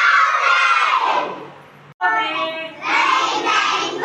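A group of young children's voices in chorus, singing and calling out together. Just before halfway the voices fade, cut off abruptly, then start again at once.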